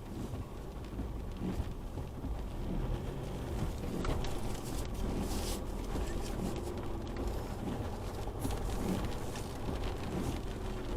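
Isuzu D-Max V-Cross pickup's diesel engine running low and steady, heard from inside the cab, with rain noise on the vehicle swelling now and then.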